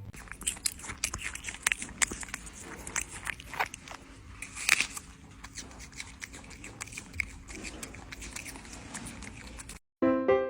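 Irregular scraping and crackling clicks over a low rumble. Near the end they cut off abruptly, and piano music starts.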